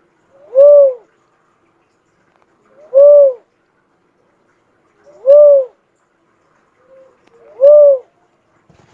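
Cuckoo-dove (burung uncal) calling: four single coos, each rising and then falling in pitch, repeated about every two and a half seconds.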